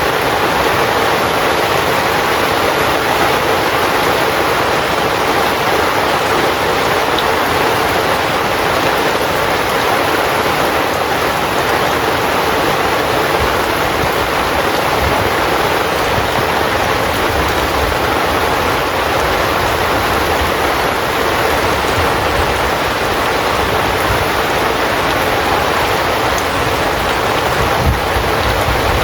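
Heavy rain falling steadily on a tent's fabric, a dense even hiss with a few faint low thuds: an added rain-on-tent sound track.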